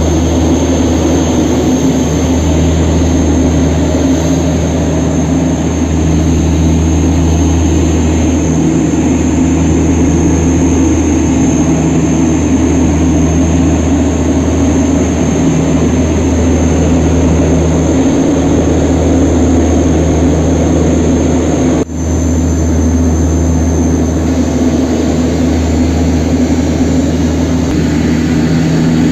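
Aircraft engines running steadily: a loud, unbroken low drone with a steady high whine above it, dipping for an instant about 22 seconds in.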